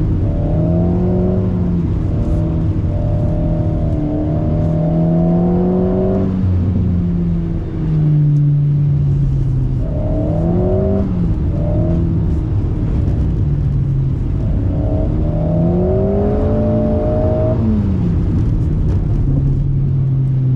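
Alpine A110's turbocharged four-cylinder through a stainless BDA Racing Track Evo exhaust, heard from inside the car, revving up and down repeatedly. The engine note climbs and falls several times, with a few clear drops where the throttle is lifted, as the car slides on the wet track.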